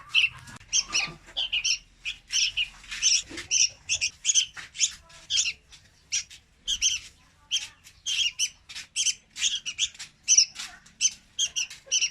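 Young red-whiskered bulbuls calling: a rapid, continuous run of short, high chirps, several a second.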